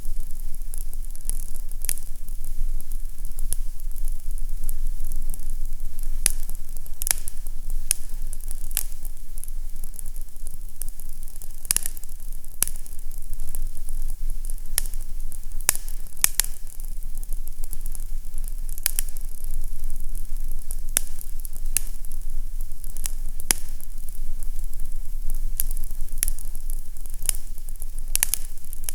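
Fireplace crackling: irregular sharp pops and snaps over a steady hiss, with a low steady hum underneath.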